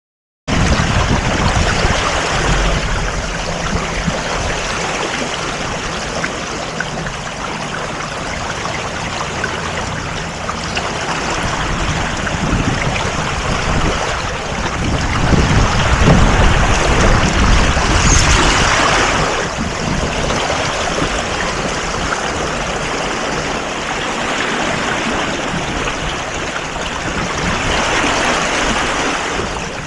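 Water rushing and splashing past a sailboat under way, a steady noisy wash that swells louder for a few seconds around the middle, with low rumbling surges underneath.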